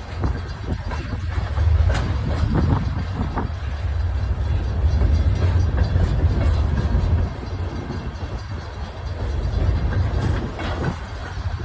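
Freight train rolling past: a steady low rumble with scattered clanks and knocks from the cars on the rails.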